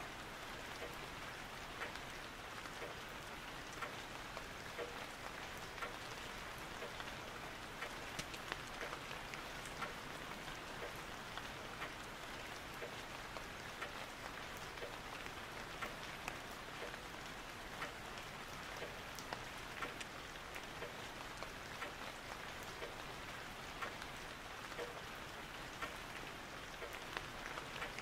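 Steady rain falling on a surface: an even hiss with many small scattered drop ticks.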